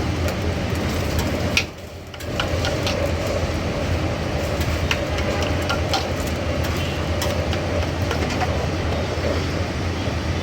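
Steady low rumble of a busy street-food stall, with a faint steady hum and scattered sharp clicks and clinks. The sound drops away briefly about two seconds in.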